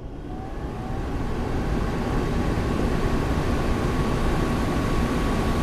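Old window air conditioner starting up and running. A rising whine and growing rush come in over the first second or two as it comes up to speed, then a steady airy rush with a constant whine and a low hum.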